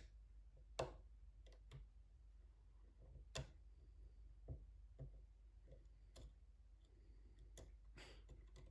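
Faint, irregular metallic clicks and taps of a hook pick working the pins of a Den Brass pin-tumbler challenge lock held under tension, about a dozen in all, with louder ones just under a second in and about three and a half seconds in.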